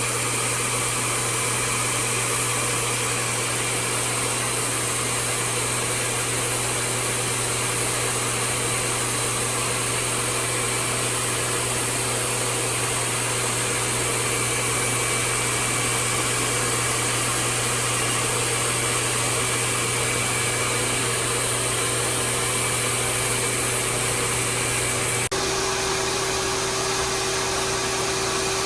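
Pet blow dryer at a self-serve dog-wash station running steadily at full blast, with a motor hum under the rush of air. It dips for an instant about 25 seconds in, then carries on.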